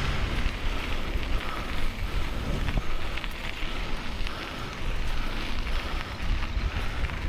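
Wind buffeting the microphone of a camera riding on a moving bicycle, a steady rushing rumble with the bike's rolling noise underneath.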